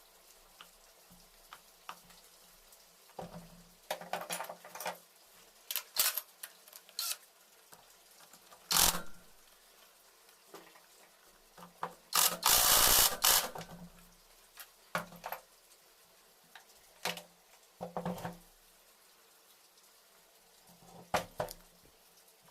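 Intermittent clicks, clinks and knocks of hand tools and metal parts being handled in motorcycle engine work. About twelve seconds in, a louder noisy rush lasts about a second and a half and is the loudest sound.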